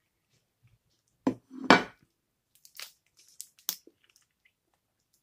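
Close-up mouth sounds of eating fried mozzarella sticks, with two loud smacks about a second and a half in. These are followed by a few light clicks and crinkles of a plastic drink bottle being handled.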